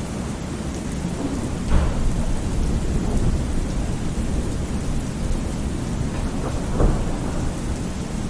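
Thunderstorm ambience: steady rain with low, rolling thunder rumbling underneath, swelling louder about two seconds in and again near the seventh second.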